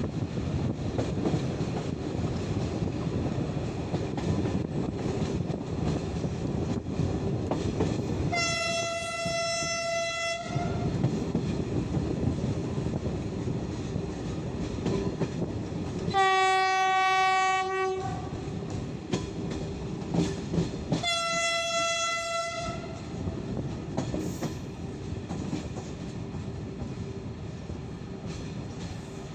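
The train's horn sounds three blasts of about two seconds each, high, low, then high again, over the steady running noise of the coaches on the rails. The line is unelectrified, so this is a diesel-hauled train.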